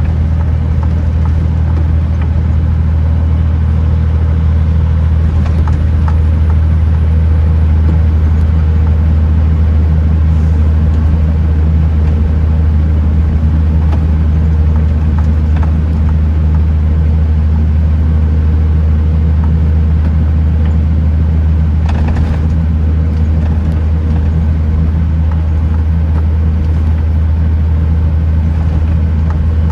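Kenworth T909 truck's diesel engine droning steadily under way, a deep, even hum over road noise. A brief rush of noise passes about three-quarters of the way through.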